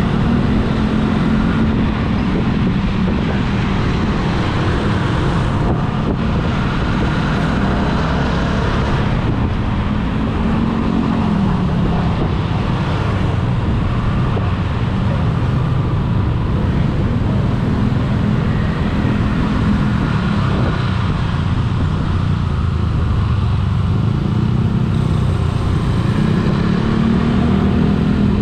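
Engine and road noise of a moving vehicle heard from on board. The engine note rises and falls a few times as it speeds up and eases off.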